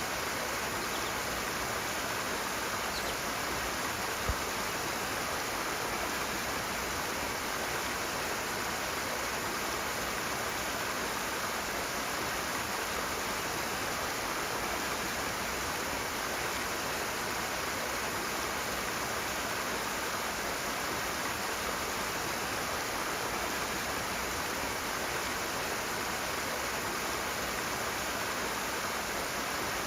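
Rushing water of a fast-flowing stream, a steady, dense noise, with one soft low thump about four seconds in.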